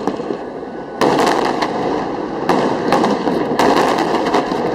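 Aerial firework shells bursting in a display: a loud bang about a second in, more at about two and a half and three and a half seconds, each followed by dense crackling.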